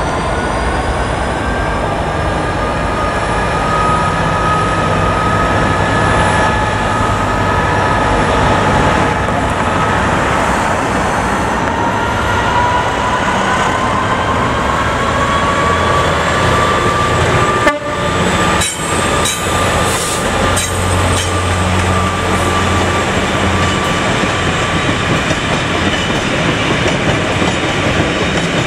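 British Rail Class 66 diesel-electric locomotive, with its two-stroke V12 engine, hauling a train of empty box wagons past: the engine running under power over a continuous rail rumble, with thin high whining tones drifting slowly in pitch. Later the wagons roll past with a clacking over the rail joints.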